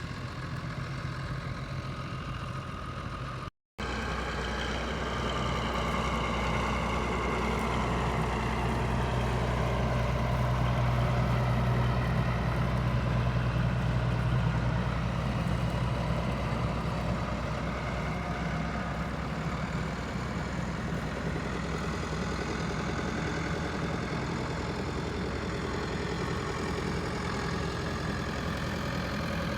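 Tractor engine running steadily, with a short break about three and a half seconds in, after which it is louder and swells a little before settling.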